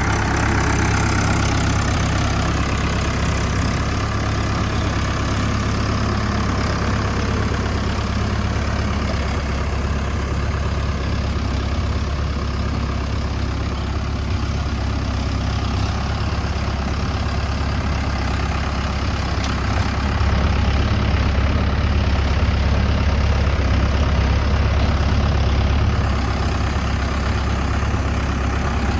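Mahindra Yuvo Tech+ 575 DI tractor's diesel engine running steadily, a little louder for several seconds about two-thirds of the way in.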